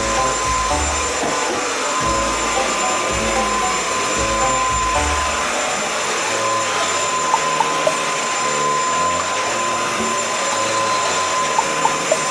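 Acum cordless cyclone stick vacuum cleaner running steadily, a continuous hiss with a steady whine. A few small clicks come about halfway through and again near the end.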